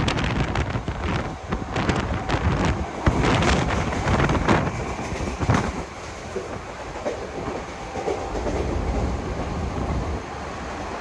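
Mumbai suburban electric local train running along the track, its wheels clattering over rail joints over a rushing running noise. The clatter is thickest in the first half, then settles into a steadier, quieter rumble.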